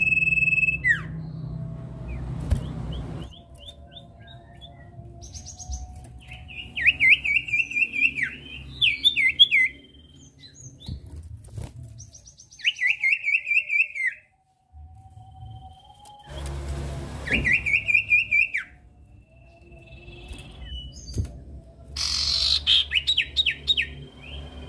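Common iora (sirtu/cipoh) singing: bursts of rapid, chattering trilled notes, each lasting one to two seconds and repeated several times with pauses between, over a steady low hum.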